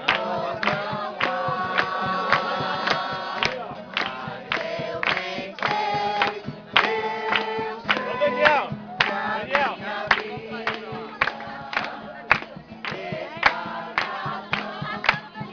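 A group of people singing a worship song together, with rhythmic hand-clapping keeping the beat.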